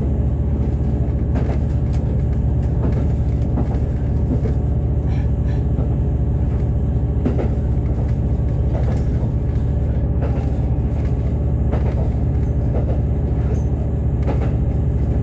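Resort Shirakami 'Aoike' HB-E300 hybrid railcar running at speed, heard from inside the carriage: a steady low drone with scattered clicks and knocks from the wheels on the track.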